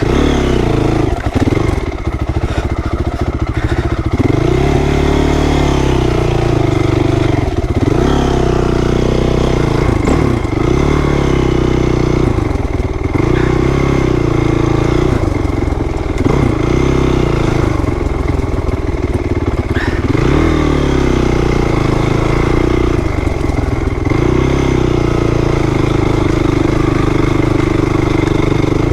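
2008 Honda CRF450R's single-cylinder four-stroke engine ridden hard on a dirt track. The revs climb and drop every two to three seconds as the throttle is worked.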